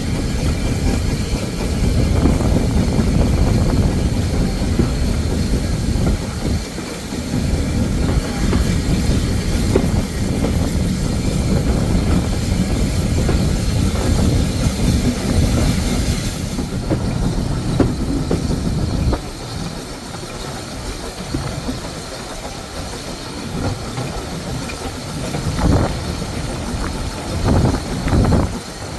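Train running along the track, a steady heavy rumble of wheels on rail with clickety-clack over the rail joints. The rumble eases off about two-thirds of the way through, leaving a few sharp knocks near the end.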